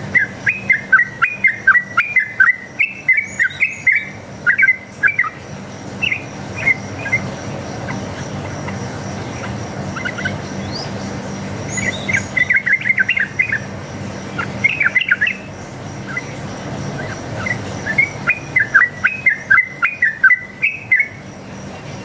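Sooty-headed bulbul (trucuk) giving rapid strings of chirping calls in three bursts with pauses between: the fast, repeated 'ropel' fighting call of a wild bird, used as a lure to make other bulbuls answer.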